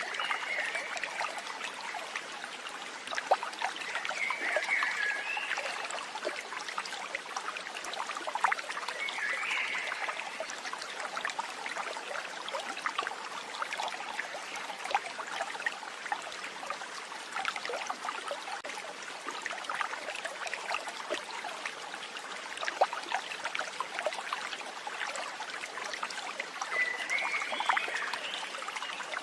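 Water trickling and babbling steadily in a small stream, with four short warbling animal calls heard over it, the last one near the end.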